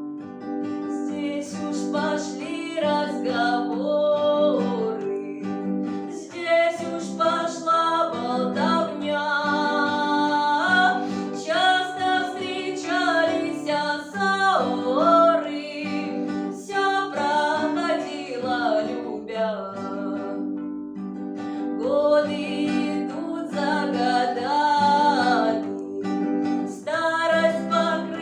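A woman singing a lyrical Russian romance, her held notes wavering in pitch, over a plucked-string accompaniment.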